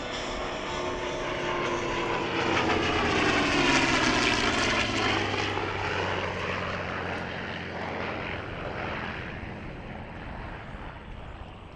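Vought F4U Corsair's radial engine on a low, fast pass: the propeller drone builds to its loudest about four seconds in, its pitch dropping as the fighter goes by, then fades away.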